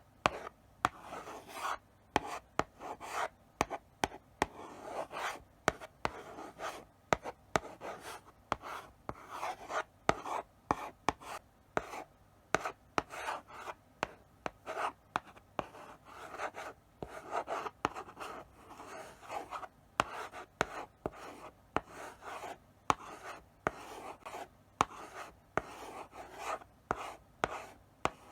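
Chalk writing slowly on a blackboard: short scratchy strokes broken by sharp taps as the chalk meets the board, a few strokes a second in an irregular rhythm.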